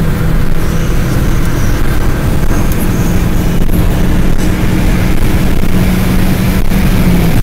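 A car at Autobahn speed, heard from inside the cabin: a steady low engine drone over tyre and wind noise, the engine note rising slightly in the second half.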